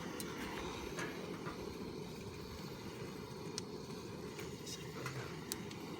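Wood fire burning in a secondary-combustion fire pit: a steady low rush of flame with a few sharp crackles of wood scattered through.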